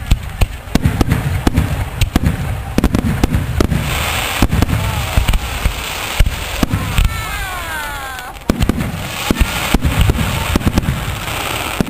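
Fireworks going off: a rapid series of booming bangs over a deep rumble, with stretches of crackling and a brief falling whistle-like tone about seven seconds in.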